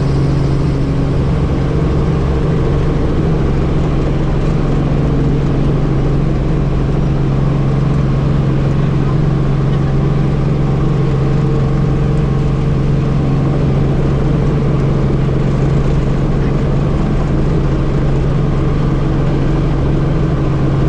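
Helicopter running: a loud, steady engine and rotor drone with a strong low hum.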